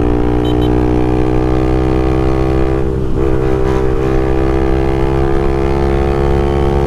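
Honda Twister single-cylinder four-stroke motorcycle engine running through a sport exhaust at a steady cruise, a loud even drone that wavers briefly about three seconds in.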